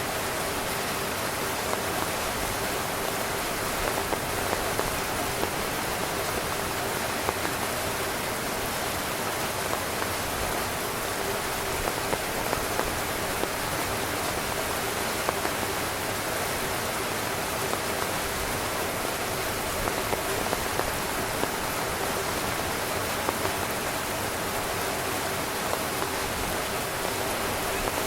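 Steady heavy rain drumming on a tent, an even hiss with frequent sharper individual drop hits.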